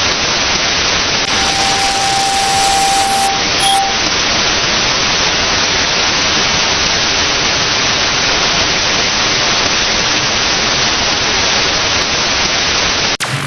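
Loud, steady static hiss like white noise. A single steady beep sounds through it from about a second in for over two seconds, and the hiss breaks off suddenly near the end.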